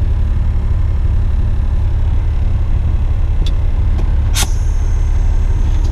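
Western Star dump truck's diesel engine running with a steady low rumble. There is a faint click about three and a half seconds in and a sharper click about a second later.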